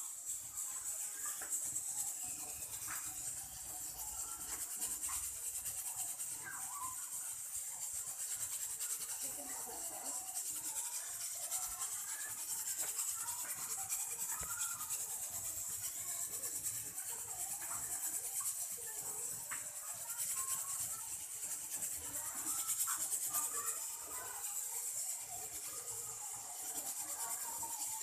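Continuous rubbing and scraping over a steady hiss.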